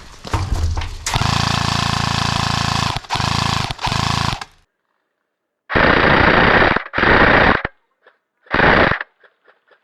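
Airsoft gun firing full-auto bursts: one long burst of about two seconds and two short ones, a brief pause, then three more bursts of a second or less.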